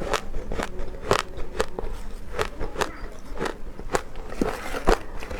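Close-up chewing of powdery ice: a quick, steady series of crisp crunches, about two to three a second.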